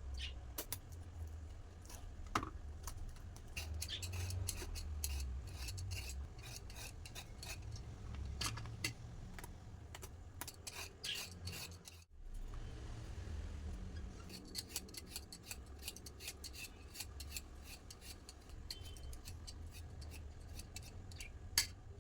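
Many small clicks, taps and scrapes of household objects being handled, such as utensils and dishes, over a low rumble. The sound drops out briefly about halfway through.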